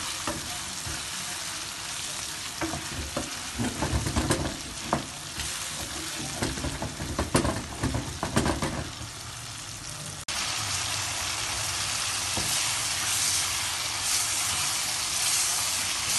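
Chicken pieces in an onion-tomato masala sizzling in oil in a frying pan while a wooden spatula stirs and scrapes through them, the strokes clustered in the middle. About ten seconds in the sound cuts to a louder, steadier sizzle.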